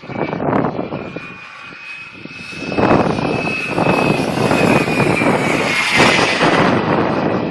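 RC model F-16 jet flying past: a steady high whine that dips slightly in pitch as it passes, with a rushing hiss that swells to a peak about six seconds in. Wind buffets the microphone throughout, easing briefly about a second in.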